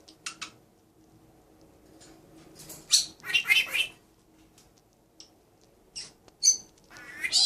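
Pet birds squawking and chirping in short high-pitched calls, with the longest run about three seconds in and another near the end.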